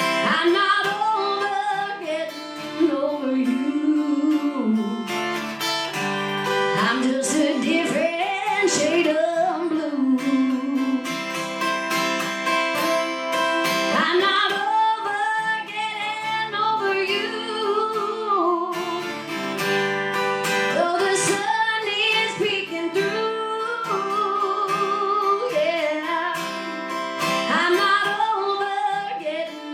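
A woman singing a melody, with long held and wavering notes, over a plucked and strummed acoustic guitar.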